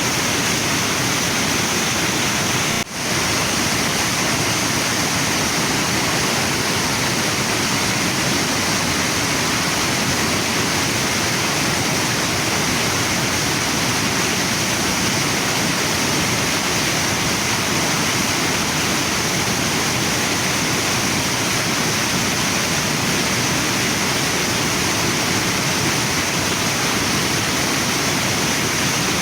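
Waterfall and river water rushing in a steady, even wash of noise, with a brief dropout about three seconds in.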